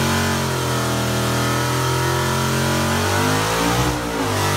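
Car engine held at high revs while it spins its tyres in a burnout; the pitch sags and swings back up about three to four seconds in.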